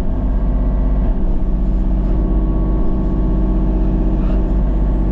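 A motor vehicle's engine running steadily, with a constant low rumble.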